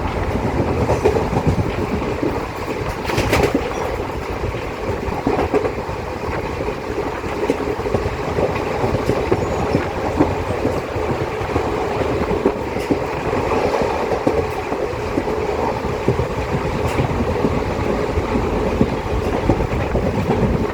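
A moving passenger train heard from on board: a steady rumble of wheels on the rails with frequent irregular knocks, and a sharper knock about three seconds in.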